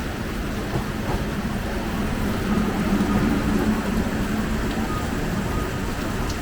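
A vehicle running, a steady rumble with a low hum that swells midway and then settles.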